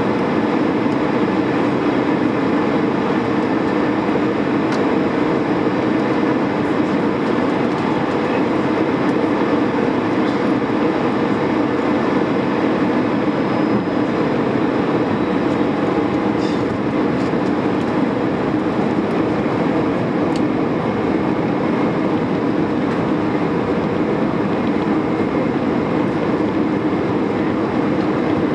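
Airbus A320 jet engines and airflow making a steady, unchanging rumble with a low hum.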